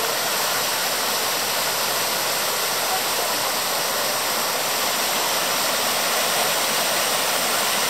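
A waterfall: falling water rushing steadily, an even hiss with no break or change.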